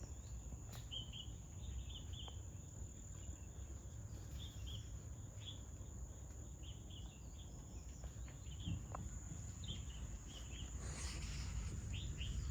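Outdoor insect ambience: a steady high drone with short chirps every second or so over a low rumble, and a brief rustle near the end.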